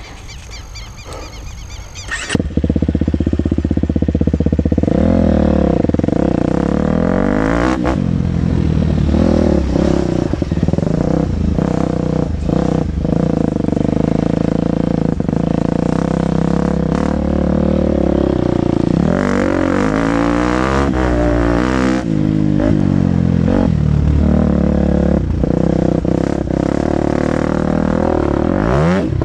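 KTM 250 SX-F's single-cylinder four-stroke engine being ridden hard, its revs rising and falling again and again. It cuts in suddenly about two seconds in, after a quieter opening.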